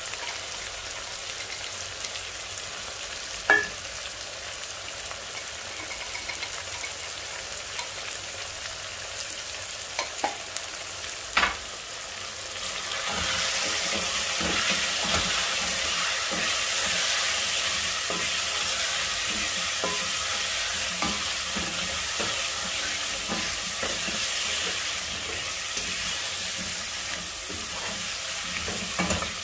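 Diced potatoes and red onions frying in oil in a pan, sizzling steadily while a wooden spoon stirs them, with a few sharp knocks in the first half. About halfway through, the sizzle grows louder as the stirring turns the spiced potatoes through the hot oil.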